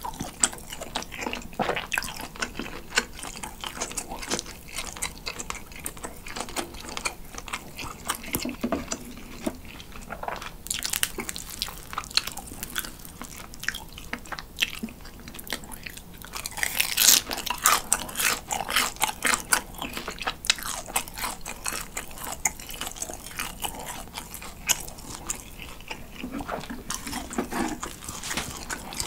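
Close-miked chewing of grilling cheese dipped in condensed milk: a steady run of soft, wet mouth clicks rather than a rubbery squeak, growing louder for a few seconds about midway.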